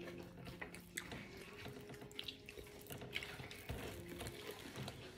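Faint eating sounds of a turkey burger and fries being chewed, with scattered soft mouth clicks over a faint steady hum.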